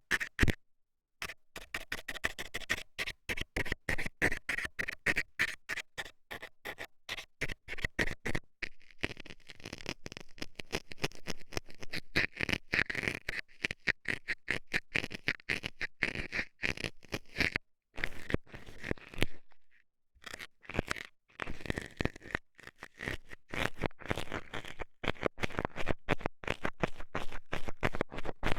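Metal dental scaler scraping and scratching inside a microphone's ear, in rapid, uneven strokes several times a second. It pauses briefly near the start, again about a third of the way through, and for longer about two thirds in.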